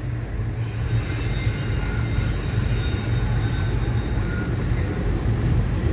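Florida East Coast freight train getting under way: diesel locomotives throttled up give a steady low rumble. From about half a second in until about four and a half seconds in, a high squeal of steel wheels on the rail rides over it.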